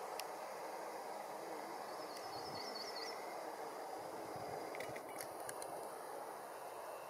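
A steady hiss of woodland ambience. About two seconds in, a small songbird gives a short high phrase of about five quick repeated notes, and a few short ticks follow around the five-second mark.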